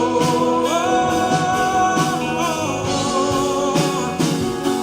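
Live gospel worship band playing on after a sung line ends on a held "Senhor", with sustained chords and a steady beat leading into the next song.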